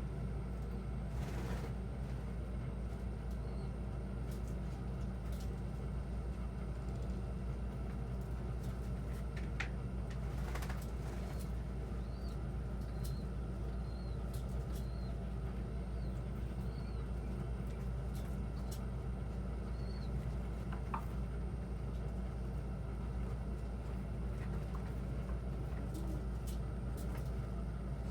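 Pigeon loft ambience: a steady low hum, with a few faint, short, high chirps from birds and some soft clicks near the middle.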